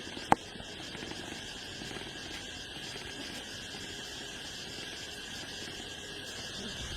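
Steady outdoor insect chorus, a constant high buzzing, with one sharp knock about a third of a second in.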